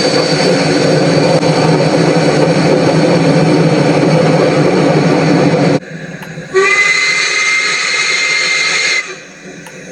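Loud, steady running noise of a steam train close by, cut off suddenly about six seconds in. Then a steam locomotive's whistle blows one long, steady blast of about two and a half seconds, rising slightly in pitch as it opens.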